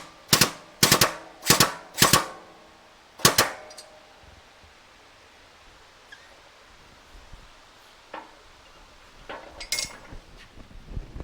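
Sharp metallic cracks, six in quick uneven succession with a brief ring after the last, as a shop press is worked against a bent Suzuki TS250 upper fork tube to straighten it. A few lighter clicks and one sharper snap come near the end.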